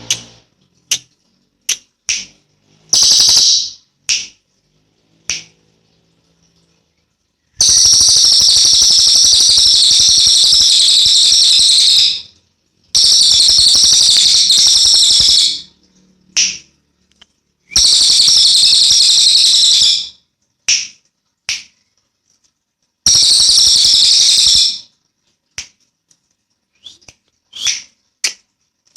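Cililin coklat songbird singing: four long, rapid, high-pitched trills of two to four seconds each, with short sharp chirps in between and silent gaps.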